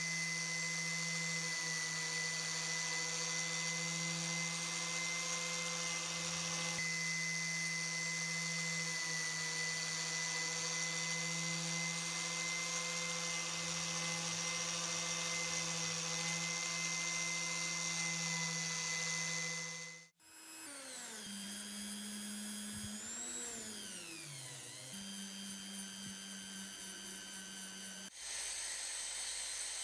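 Small electric power tool motor running at a steady high whine. It cuts off suddenly about two-thirds of the way through, then runs again with its pitch sliding down and back up, and a different steady motor sound takes over near the end.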